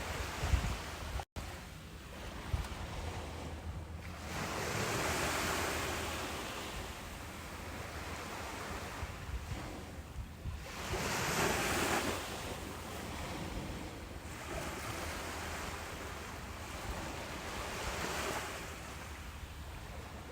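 Ocean surf washing on a beach, the noise of the breaking water swelling three times, about six seconds apart. Wind buffets the microphone with low rumbles in the first seconds, and the sound drops out for an instant about a second in.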